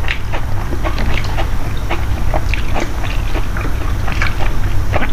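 Close-up mouth sounds of a person chewing food, with many short, irregular smacks and clicks over a steady low hum.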